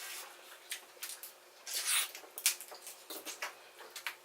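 Close-up wet eating sounds: chewing and mouth smacking on buttery boiled potatoes, a run of irregular short clicks and squishes, busiest about two seconds in.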